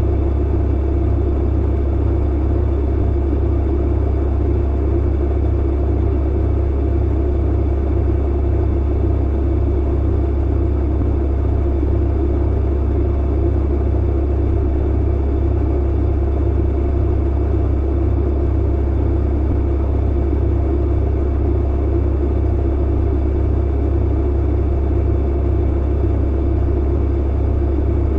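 Clothes dryer running: a steady low hum with a rushing noise above it, unchanging throughout.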